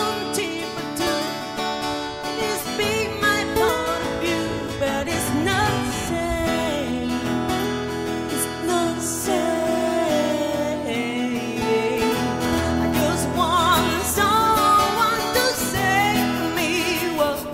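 Rock song played on guitars, with a singing voice over the strummed and picked chords.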